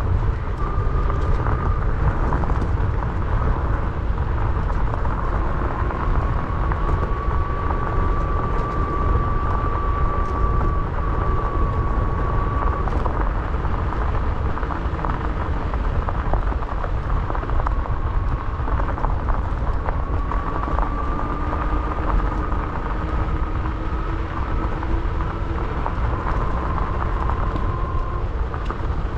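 An e-bike ridden over a dirt trail: wind rumbling on the camera microphone and tyre noise, with scattered small rattles and ticks, and a thin, slightly wavering whine from the electric motor that comes and goes.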